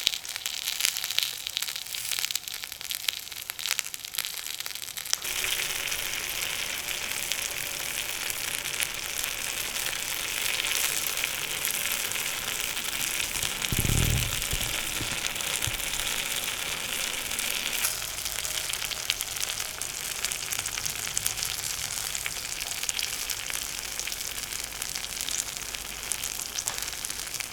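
Food sizzling and crackling in a hot pan over a fire. It starts as scattered crackles, settles into a steady sizzle after about five seconds and eases back to crackling later on, with one low thump about halfway through.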